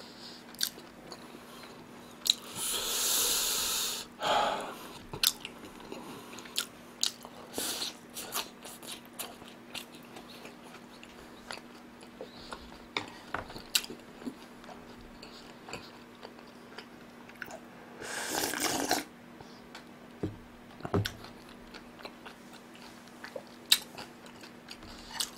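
Close-miked chewing with many small wet mouth clicks as a man eats a mouthful. There are two longer noisy rushes, one about two to four seconds in and another around eighteen seconds, over a faint steady hum.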